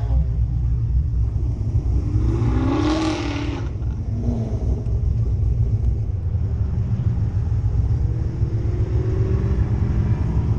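Cammed Corvette V8 running under way with a steady, loud low rumble. A pitched tone rises and falls briefly about three seconds in.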